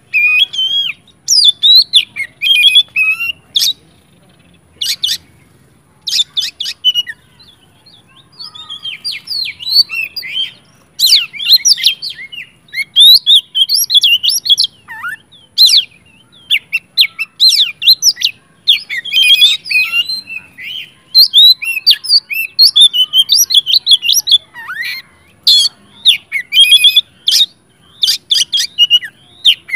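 Oriental magpie-robin (kacer) singing loudly and aggressively, in rapid, varied whistled and chattering phrases. A few seconds in, the song thins to separate notes for a while, then runs on densely.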